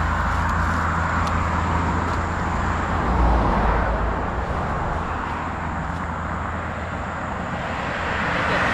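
Motorcycle underway on the road: a steady rush of wind over the microphone with the engine's low drone beneath it.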